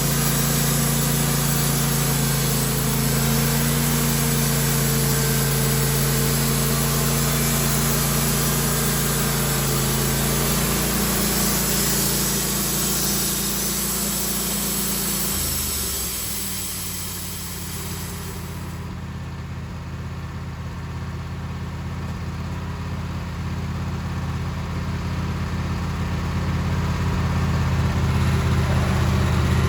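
Sawmill engine running steadily, its pitch dropping about halfway through. A high hiss that runs over it cuts off suddenly about two-thirds of the way in, and the engine then rises in level toward the end.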